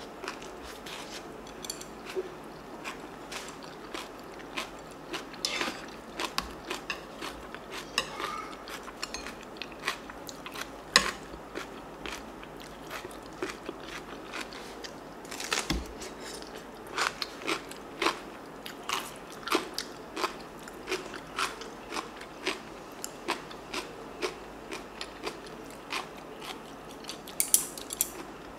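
Close-miked chewing of crunchy food, bean sprout rice and stuffed cucumber kimchi (oi-sobagi), with a steady run of crisp crunches about every half second in the second half.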